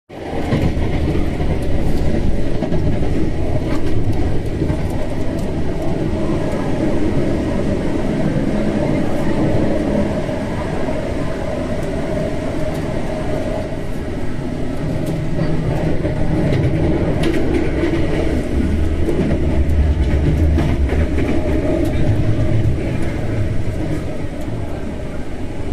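Hankyu 5100 series electric train running, heard from inside the carriage: a steady rumble of wheels on rail, with a few sharp clicks.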